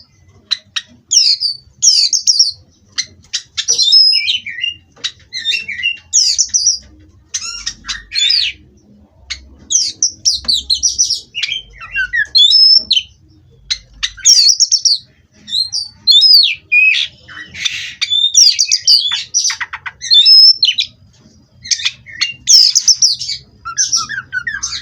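Oriental magpie-robin (kacer) singing a long, varied song of short whistled phrases, chirps and harsher squawky notes with hardly a pause, including a fast rattling trill a little past the middle.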